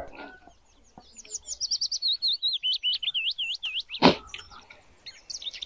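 A small bird singing a fast run of high, repeated chirps, pausing briefly and starting again near the end. A single sharp click cuts in about four seconds in.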